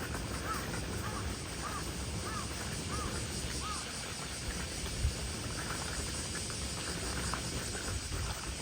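A bird calling a quick series of six short rising-and-falling notes, about 0.6 s apart, over a steady outdoor rush of wind and gentle surf. A single soft low bump comes about five seconds in.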